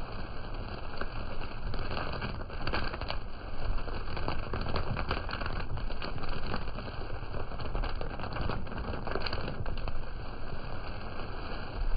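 Heavy rain, with many close drops hitting a surface by the microphone as quick clicks over a steady low rumble.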